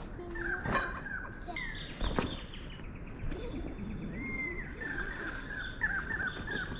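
Birds calling, a run of short chirps and whistled glides, with two sharp knocks in the first couple of seconds.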